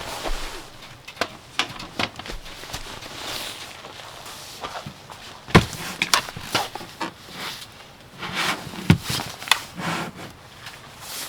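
Irregular knocks and clatter with rustling between them, the sharpest knocks about five and a half and nine seconds in.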